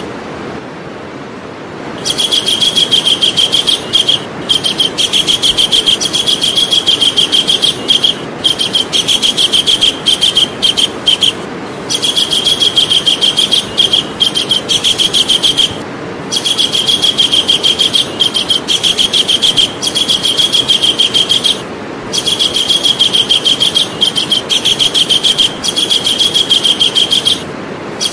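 Javan kingfisher giving its loud, rapid rattling call: a fast run of sharp, high notes, repeated in stretches of several seconds with brief pauses, over a steady background hiss.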